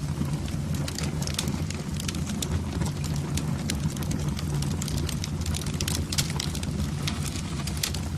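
Wood fire burning in a fireplace, with many sharp, irregular crackles and pops over a steady low roar.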